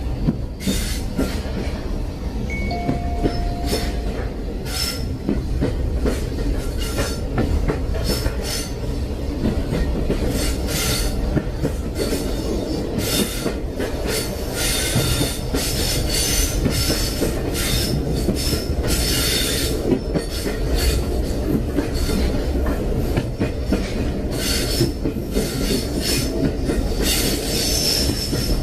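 Train running on the rails: a steady low rumble with clattering from the wheels and a high metallic squeal that comes and goes in stretches.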